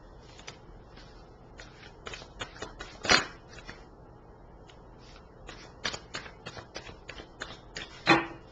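A deck of tarot cards being shuffled by hand: two runs of quick card flicks and taps, starting about two seconds in and again about five and a half seconds in, each ending with a louder snap.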